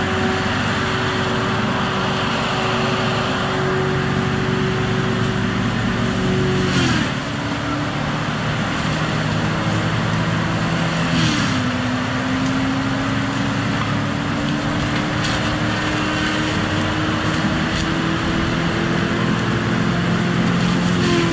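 Heavy diesel logging machine running steadily. Twice, about a third and about halfway through, its pitch drops sharply with a short knock, then slowly climbs back, as under a sudden load.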